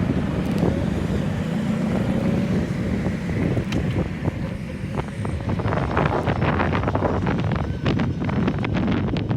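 Wind buffeting the microphone of a rider on a moving electric unicycle, a steady low rush, with a scatter of sharp clicks and knocks in the second half.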